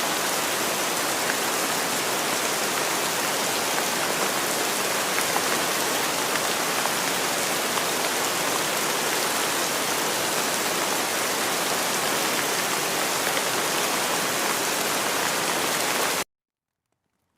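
Steady, dense rain with a fine patter of drops, which cuts off abruptly about a second before the end, leaving silence.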